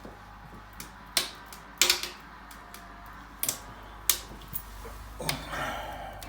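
Wood burning in a stove-fireplace, crackling with a few sharp, irregular pops.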